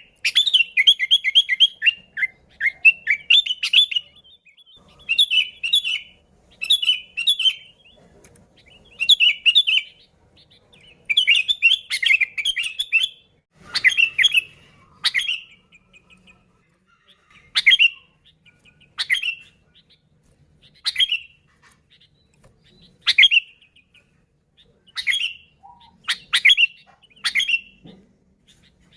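Sooty-headed bulbul (kutilang) singing: runs of short chirping phrases over the first half, then single short calls about every one to two seconds.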